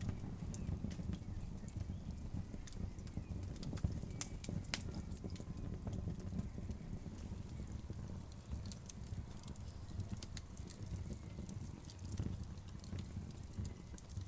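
Wood fire burning in a fireplace: irregular sharp crackles and pops over a steady low rumble of the flames, with one louder pop about four seconds in.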